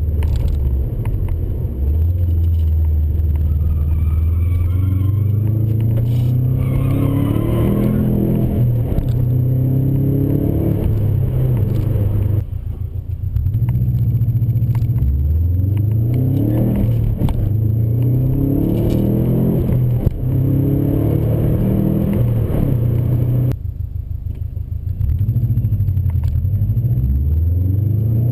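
1999 Subaru Impreza WRX turbocharged boxer (flat-four) engine and its turbo-back exhaust, pulling up through the revs again and again as the car accelerates. The pitch climbs, then drops with a brief dip in loudness about 12 seconds in and again about 23 seconds in, where the throttle lifts for a gear change, before rising once more.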